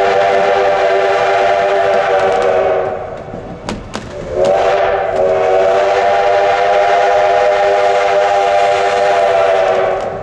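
Steam locomotive whistle blowing two long blasts. The first is already sounding and stops about three seconds in; the second swells up to pitch about a second and a half later and holds until near the end.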